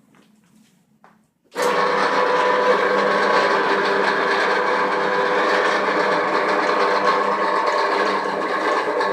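Electric pipe cutting and threading machine switched on about a second and a half in, then running loud and steady with several steady tones from its motor and gearing. A few faint knocks come before it starts.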